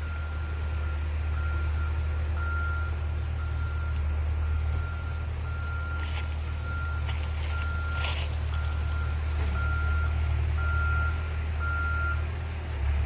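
Skid steer's diesel engine running with its backup alarm beeping steadily at a single pitch, a little more than once a second, as the machine reverses. The beeping stops shortly before the end, and there is some crackling near the middle.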